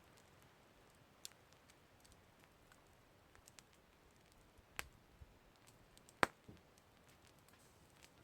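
Campfire crackling quietly: scattered sharp pops and snaps over a faint hiss, with one louder pop a little before five seconds and the loudest a little past six seconds.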